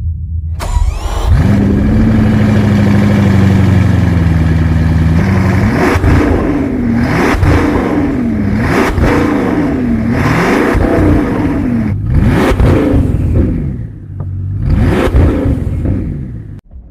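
Bugatti Chiron's 8.0-litre 16-cylinder engine revving: it comes up sharply about half a second in, holds a steady fast idle, then is blipped in a series of short revs, each rising and falling, about one every second and a half. It cuts off abruptly near the end.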